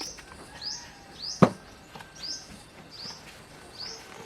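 A small bird chirping: a short, high, rising chirp repeated evenly, about every two-thirds of a second. A single sharp knock about a second and a half in.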